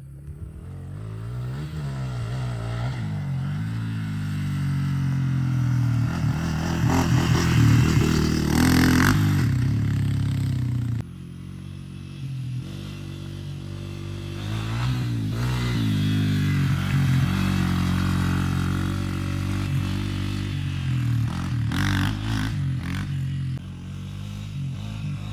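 An off-road vehicle's engine revving up and down repeatedly as it is ridden, with a clatter and scrape of the machine over rough ground.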